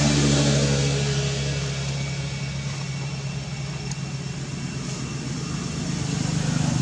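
A motor engine running with a steady low hum under a broad hiss, loudest at the start, fading a little, then swelling again near the end, like vehicles passing by.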